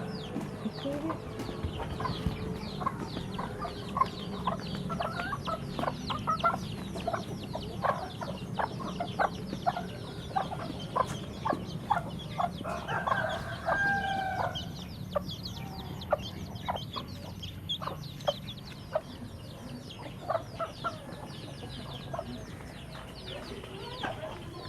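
A flock of chickens clucking busily while feeding, many short calls overlapping, with one longer call about thirteen seconds in.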